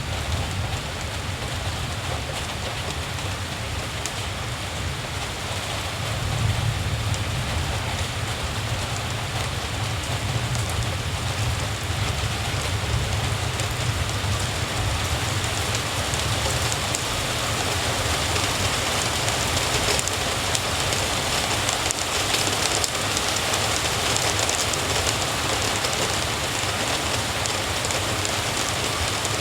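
Steady rain falling, an even hiss, with a low rumble underneath that grows a little louder about six seconds in.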